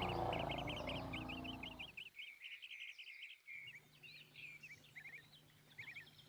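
Small birds chirping in quick runs of high notes, busy at first and sparser later, under a low rumble that fades out about two seconds in.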